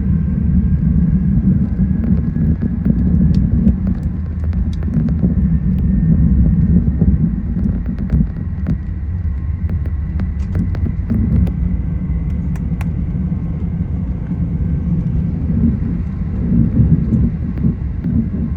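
Steady low rumble of an Airbus A380-800 as heard inside the cabin, with scattered light clicks and rattles.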